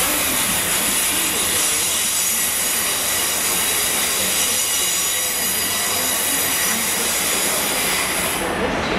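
Locomotive-hauled passenger train running slowly into the platform, with a loud, high-pitched metallic squeal of several tones as it brakes. The squeal fades out near the end.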